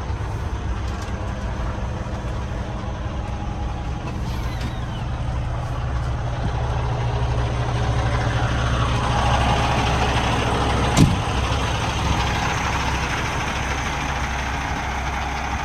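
Cummins X15 diesel engine of a Peterbilt 389 running at idle with a steady low hum. It grows louder for a few seconds in the middle, and a single sharp knock comes about eleven seconds in.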